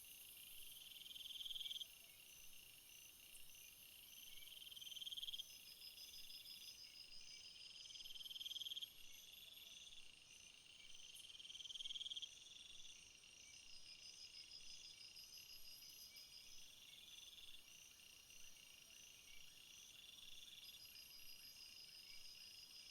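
Summer field chorus of crickets and other singing insects. A buzzing trill swells and cuts off abruptly every three to four seconds, over steady rows of rapid, even chirps.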